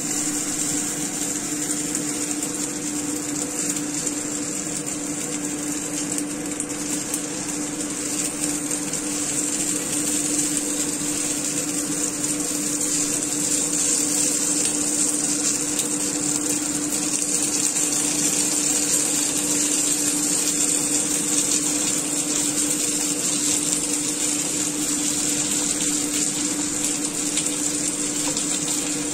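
Dumplings filled with shredded chicken and spring onion sizzling steadily as they pan-fry in oil in a nonstick pan, with a steady low hum underneath.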